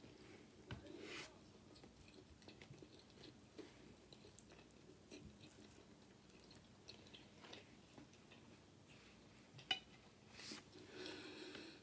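Faint close-up chewing of fried chicken with small wet mouth clicks. One sharp click about ten seconds in, then a short soft hiss near the end.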